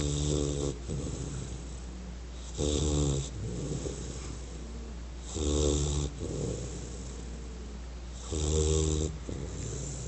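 American Bulldog snoring in its sleep: four loud snores about every three seconds, each followed by a softer breath out.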